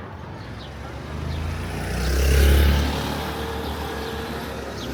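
A motor vehicle passing close by, its engine swelling to loudest about two and a half seconds in and then fading, over steady street noise.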